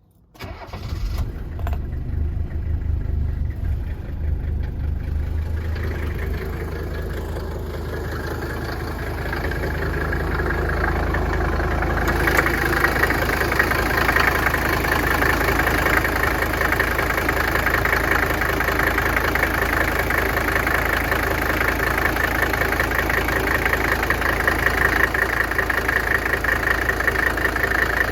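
Mercedes-Benz 300TD's five-cylinder diesel engine starting from cold, catching within the first second, then idling with a steady diesel clatter. The clatter grows louder and sharper about twelve seconds in and holds steady.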